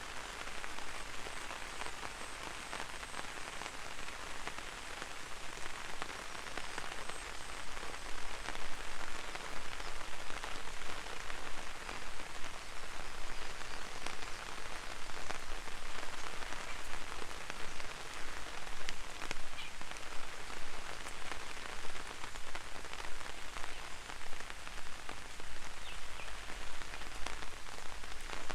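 Gentle rain falling on an umbrella held overhead: a dense, steady mass of small drop ticks that grows somewhat louder over the first several seconds.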